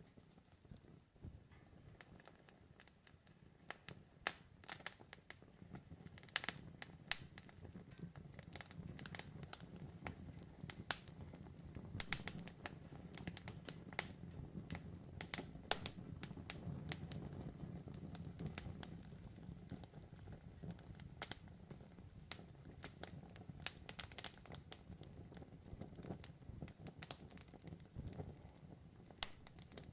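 Wood campfire crackling: irregular sharp pops and snaps over a low steady rumble of flames, busiest in the middle.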